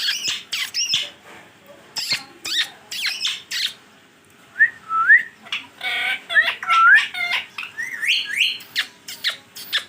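Green Indian ringneck parakeet calling: a quick series of short, sharp, high squawks, then a run of rising whistles mixed with chirps from about halfway through.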